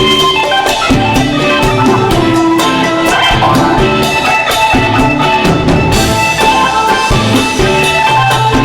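Live band playing: a drum kit keeping a steady beat under held Hammond organ chords.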